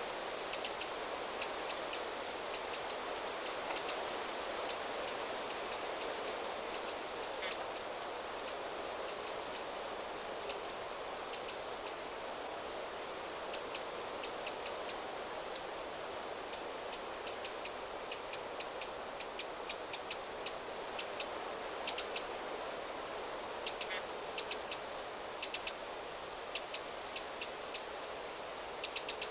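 Small birds giving short, high chirps in quick clusters, busier in the second half, over a steady rush of wind through the trees. Two single sharp clicks stand out, one early and one near the end.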